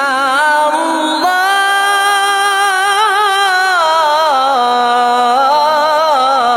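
A single voice singing a slow, ornamented melody with long held notes that waver in vibrato and glide between pitches; a new, higher phrase begins about a second in.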